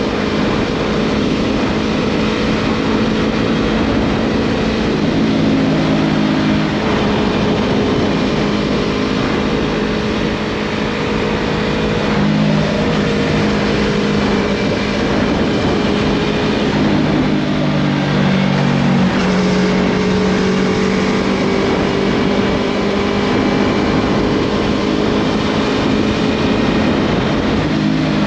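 Yamaha MT-03 motorcycle with a Scorpion full-system exhaust running under way, its engine note holding steady and then stepping up or down in pitch several times as the throttle and gears change. The engine is heard over a steady rush of wind noise.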